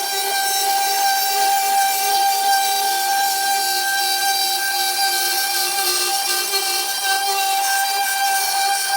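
CNC router spindle running steadily with a high whine while it cuts plywood.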